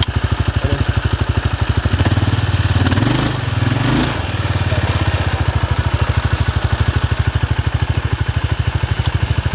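Quad bike engine idling with an even pulse, briefly revving up and settling back about two to four seconds in as the bike is pulled in reverse.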